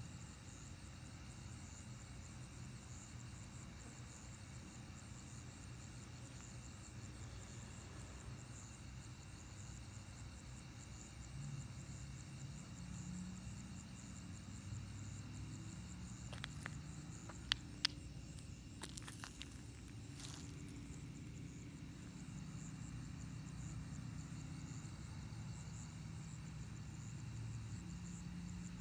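A chorus of night insects, crickets among them, trills steadily over a faint low hum. Two sharp clicks come a little past the middle.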